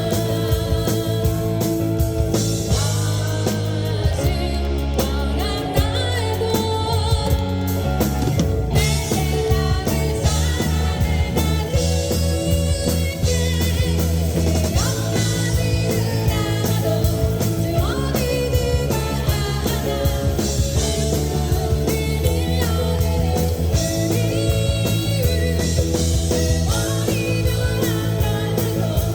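Live band performing a rock-style song with a singer's voice over electric guitar, bass and drum kit.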